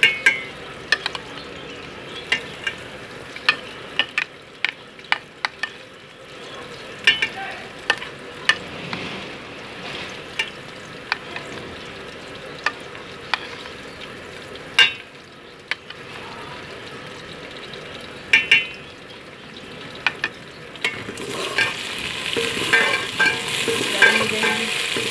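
Cut okra frying in oil in an aluminium pot, with a steel spoon stirring and knocking against the pot in sharp clicks. The sizzle grows louder near the end.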